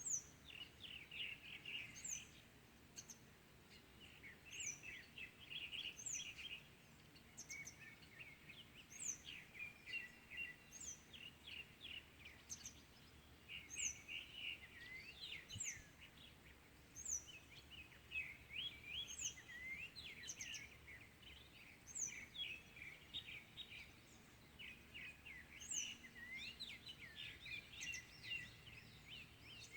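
Several small birds singing in the morning. One repeats a thin, high note that slides downward about once a second, over a busy chatter of chirps and trills from others.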